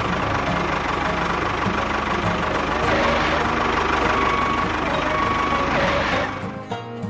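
An engine running steadily, a tractor-type engine sound. It drops away about six seconds in, and music begins near the end.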